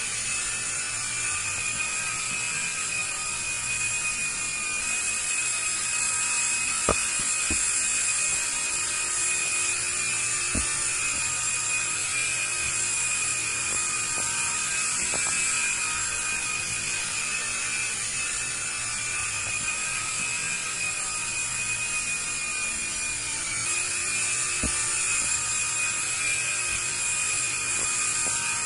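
Small electric motors and rotor blades of a toy IR remote-control helicopter running steadily with a high whine, broken by a few sharp clicks.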